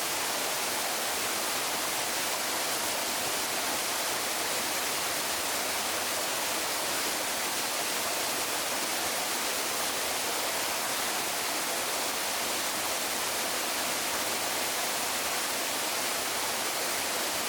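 Waterfall pouring steadily: an even, bright hiss of falling water with little low rumble.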